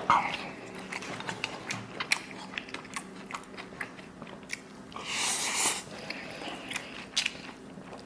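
Close-up chewing and biting of chili stir-fried pork belly and rice, a run of wet mouth clicks and smacks. About five seconds in there is a louder breathy rush of air lasting under a second.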